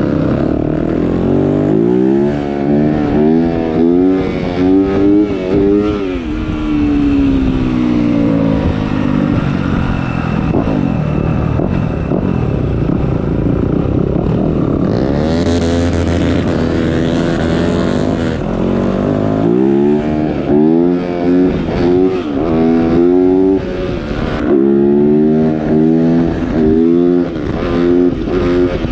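Motocross bike engine being ridden hard, its pitch climbing and dropping over and over as the throttle is worked, with a steadier stretch in the middle. A rushing hiss rises over it for a few seconds around halfway.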